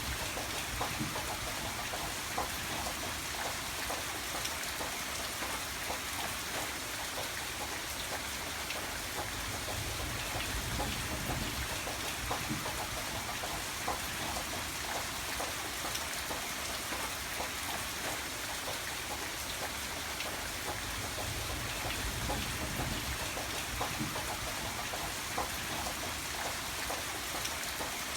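Steady rain with many close drops tapping on a surface and a soft low rumble underneath.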